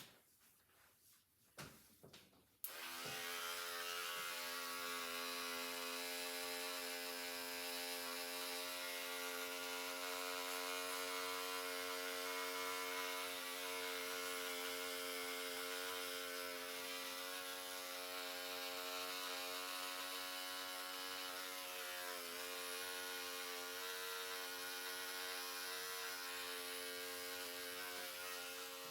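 Electric hair clippers switch on about two and a half seconds in and run with a steady buzz. A few faint handling clicks come before they start.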